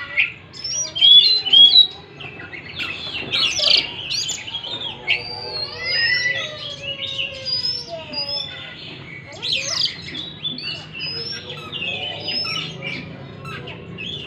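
Oriental magpie-robin singing without a break: a rapid, varied string of clear whistles, chirps and sliding notes, loudest about one to two seconds in.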